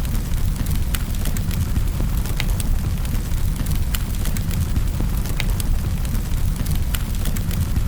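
Wood fire in a fireplace crackling, with irregular sharp pops, the louder ones coming about every second or so, over a steady low rumble.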